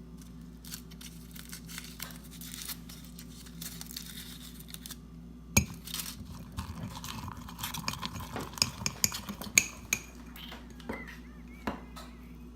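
Fork clinking and scraping against a mug while stirring mug-cake batter with peanut butter chips and Reese's Pieces, in small irregular taps, with one sharp knock about five and a half seconds in and a quicker run of clinks after it.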